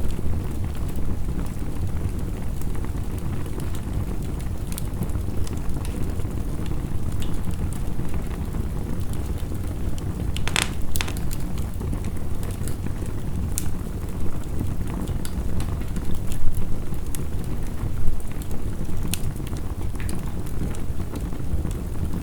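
Wood fire crackling, with scattered sharp pops, the loudest about ten and a half seconds in, over a steady low rush of heavy rain.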